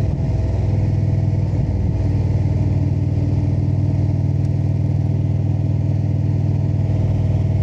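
Indian V-twin motorcycle engine running steadily at cruising speed, with a faint rush of wind.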